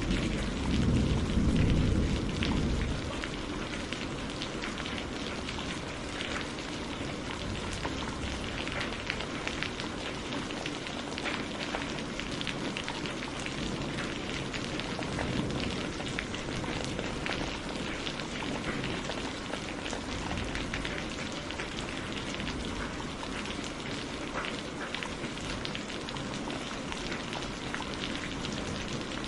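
Heavy rain falling steadily, a dense hiss of drops with fine patter, while a low thunder rumble dies away in the first few seconds.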